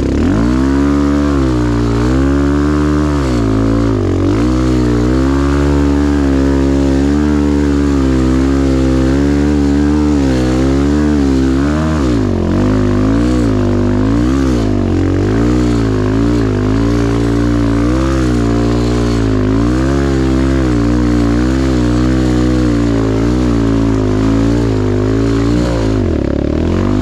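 Dirt bike engine running hard under constant throttle changes, its pitch rising and falling every second or so as it is ridden through rough, muddy ground, with a brief drop in revs about twelve seconds in.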